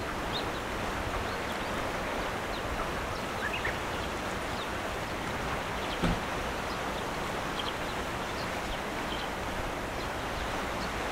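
Former Kintetsu electric train coming slowly along the track, a steady rushing noise that stays level, with a few short bird chirps over it and a single low thump about six seconds in.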